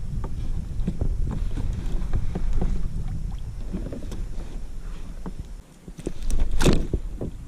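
Wind rumbling on the microphone over scattered small knocks and water sounds around a kayak. A louder burst of noise comes near the end.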